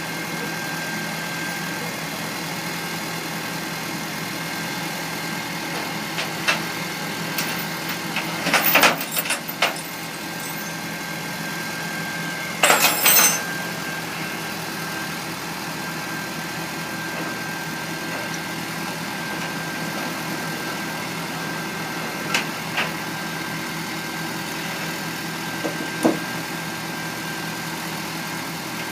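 Tow truck engine idling steadily with a thin steady whine over it, broken by a few sharp knocks and clanks, the loudest in two short clusters about a third and nearly halfway through.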